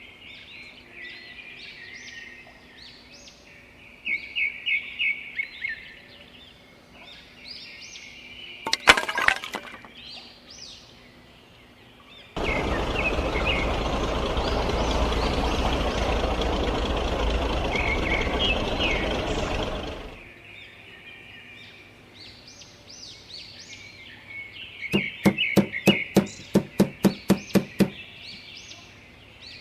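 Small birds chirp throughout. A brief crackle of clicks comes about nine seconds in. A loud, steady rushing noise starts suddenly and runs for about eight seconds before fading, and near the end there is a quick run of about a dozen knocks, about four a second.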